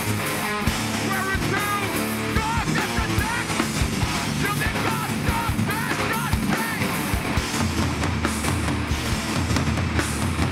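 Live hardcore punk band playing loud and fast, with distorted electric guitars, bass and a pounding drum kit.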